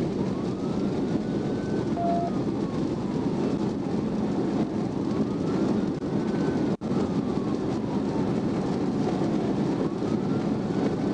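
Steady road and engine noise inside a patrol car at highway speed, with a police siren faintly wailing, slowly rising and falling about every four and a half seconds. A short beep sounds about two seconds in, and the sound drops out for an instant near seven seconds.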